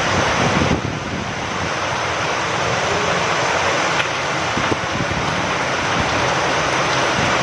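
Steady rain falling, with wind: a dense, even hiss, broken by a few sharper drop taps.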